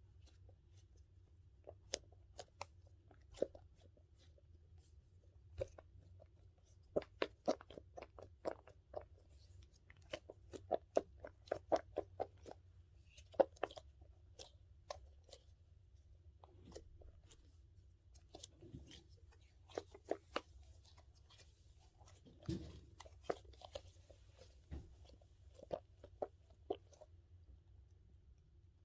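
Close-miked ASMR handling of a dumpling squishy toy and its plastic case: irregular sharp taps and clicks, some in quick runs of several a second, with a few softer thuds.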